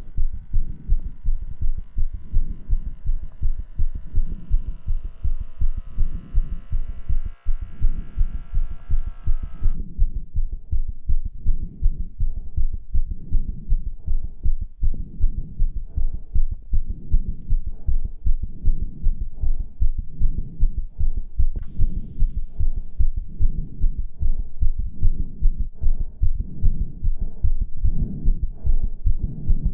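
A heartbeat thudding steadily at a little over one beat a second. For about the first ten seconds a sustained layered tone lies over it, then cuts off suddenly.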